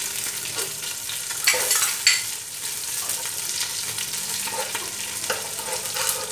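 Curry leaves and green chillies sizzling in hot oil in a nonstick pot as jaggery is tipped in and a spatula stirs and scrapes through it. Two sharp clacks come about one and a half and two seconds in.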